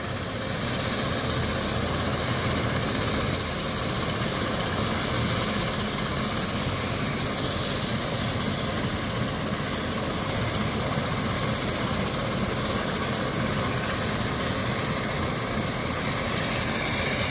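Medical helicopter running steadily, a constant engine and rotor noise with a high hiss over it.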